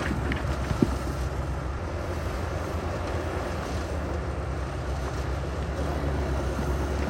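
Heavy diesel earthmoving machinery running steadily with a low rumble, mixed with wind noise on the microphone. A single sharp knock comes a little under a second in.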